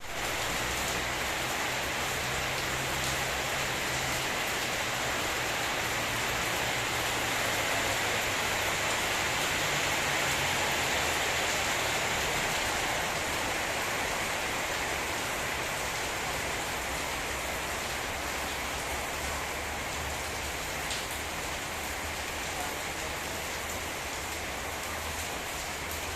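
Heavy rain of a rainstorm falling steadily, an even hiss with a few separate drops ticking through it.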